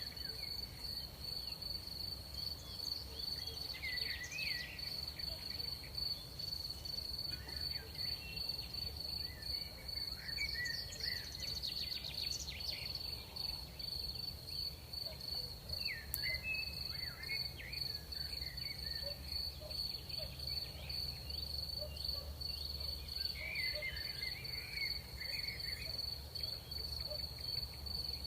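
Crickets trilling in one steady, unbroken high note, with scattered short chirps above a low background rumble.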